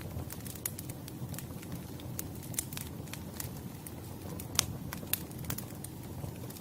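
Wood fire burning: irregular sharp crackles and pops over a low, steady rumble, with the loudest pop about four and a half seconds in.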